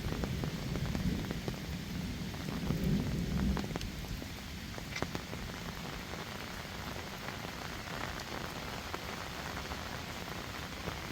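Heavy rain falling: a steady hiss with many single drops ticking close by. A deeper rumble under it in the first few seconds eases off about three and a half seconds in.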